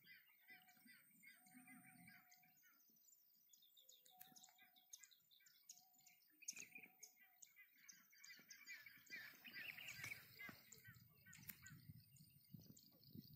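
Faint birds chirping: many short chirps and trills, with a few short, level calls.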